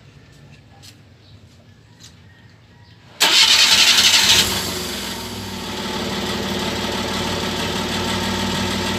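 Suzuki Multicab's 12-valve engine starting up suddenly about three seconds in, running loud for about a second, then settling to a steady idle. It is the first run after a new clutch lining was fitted.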